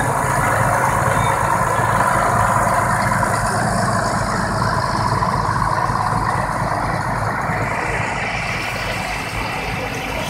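Case IH Quadtrac 450 tracked tractor's large diesel engine running steadily as it drives past, loudest a couple of seconds in and slowly easing off towards the end.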